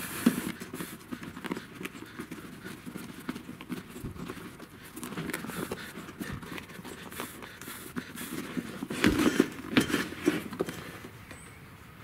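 Old rubber inner tube being pulled by hand out of a wheelbarrow tire: irregular rubbing, squeaking and soft knocks of rubber handling, with a louder cluster of knocks about nine seconds in.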